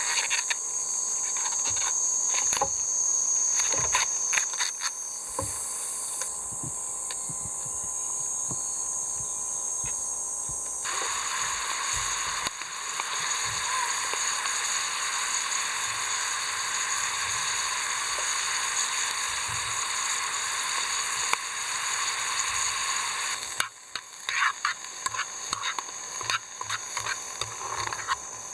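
Steady high-pitched shrilling of summer insects such as crickets and cicadas, with scattered light clicks and taps. The insect sound changes abruptly a few times, thickening into a broad sizzling hiss for about twelve seconds in the middle.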